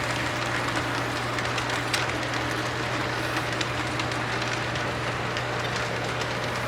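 Model Dash-9 diesel locomotive running at slow speed with its tank cars, its onboard sound system playing a steady diesel engine rumble, with occasional clicks from the wheels on the track.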